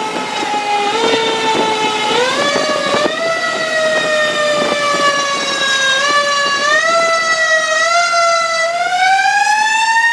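Fire engine siren wailing. Its pitch sags slowly and is pushed back up in short climbs about two, three and six and a half seconds in, then rises more broadly near the end.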